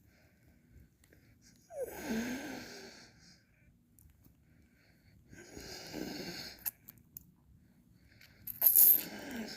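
Mouth sounds of licking and slurping ice cream: three separate slurps about three seconds apart, the last the loudest.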